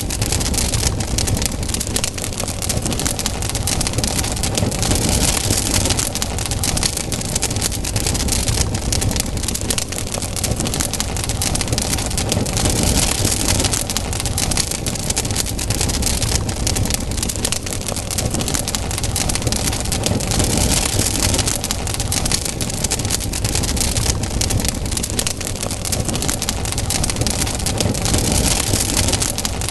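Wood campfire burning, crackling and popping steadily, with a low rumble underneath.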